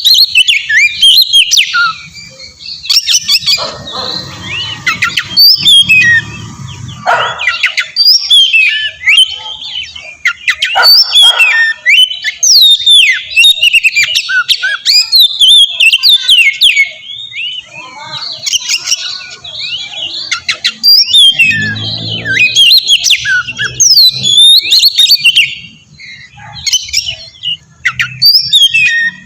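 Oriental magpie-robin (kacer) singing a loud, fast, varied song of short rising and falling whistles, with a couple of brief lulls. It is a territorial song used as a lure to make other magpie-robins answer.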